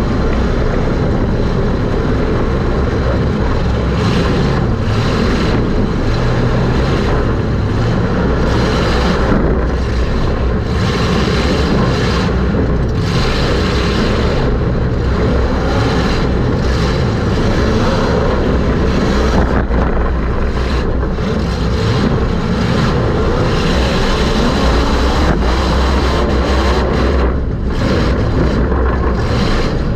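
Super Stock race car's engine running hard at racing speed, heard from inside the car with heavy mechanical and wind noise. The higher part of the sound drops away briefly every few seconds, as it would when the throttle eases through turns.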